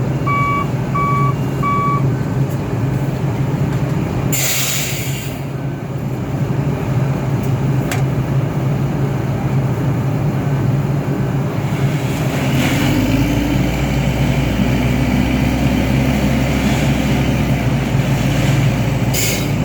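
Heavy diesel machinery running at an asphalt paving site, with a steady engine hum. A reversing alarm beeps at an even pace for the first couple of seconds, then fainter beeps follow. A short hiss of air comes about four seconds in and again at the very end, and a deep low drone sets in about thirteen seconds in.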